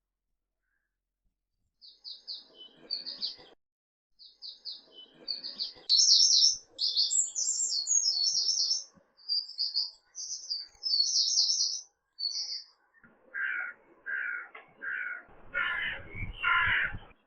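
Birds calling: a songbird chirps in quick high trilled phrases for about ten seconds, then a run of about six harsher, lower calls follows near the end, the last ones loudest.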